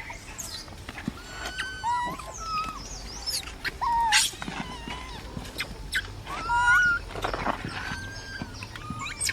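Baby monkey crying: a string of short, high-pitched squeaks and coos, some rising in pitch, with rustling and scattered clicks in between.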